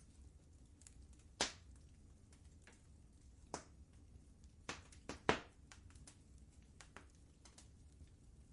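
Wood fire crackling in a fireplace: scattered sharp pops at irregular intervals, the loudest about one and a half seconds in and a cluster around five seconds in, over a faint low rumble.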